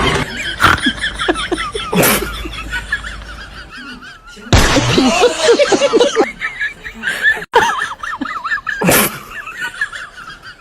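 People laughing and snickering, broken by a few sudden loud noisy bursts, the longest starting about four and a half seconds in.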